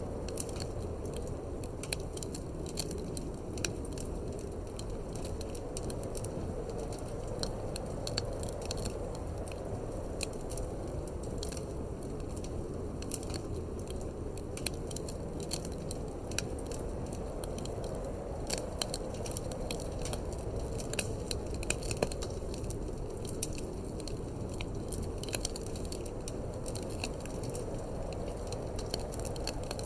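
Wood fire in a fireplace crackling, with frequent sharp pops and snaps, over a steady low rush of wind.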